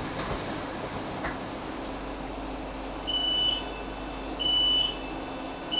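Steady hum inside a Class 458 electric train's carriage. In the second half come two short, high beeps about 1.3 seconds apart, and a third starts at the very end: the train's door beeps as it comes to a stand at a station.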